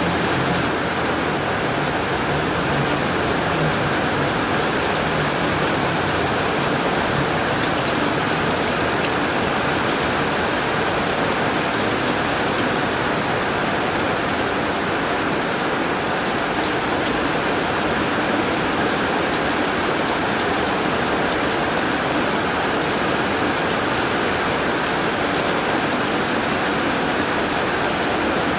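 Heavy rain falling steadily on a tin roof: a dense, even hiss with scattered ticks of single drops.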